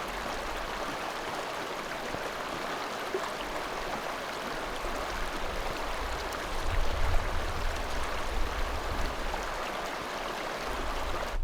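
Creek water rushing steadily, with wind buffeting the microphone in low gusts during the second half.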